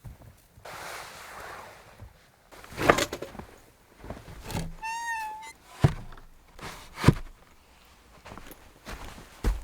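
Irregular knocks and thuds, about five spread over several seconds, with a short wavering squeak about five seconds in.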